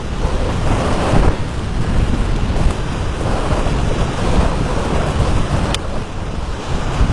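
Gale-force wind buffeting the microphone in heavy, rumbling gusts over crashing surf, with a single sharp tick about six seconds in.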